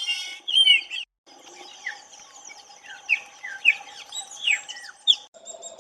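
Wild birds calling: a run of short, sharp down-slurred chirps, roughly one every half second or so, over a steady faint hum. The sound drops out briefly twice, about a second in and near the end.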